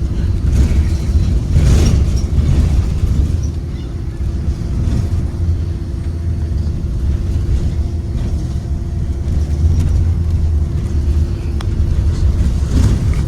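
Cabin sound of a 2023 Blue Bird Vision school bus under way: steady low rumble from its Ford 7.3L V8 engine and drivetrain with road noise, and a steady droning tone underneath.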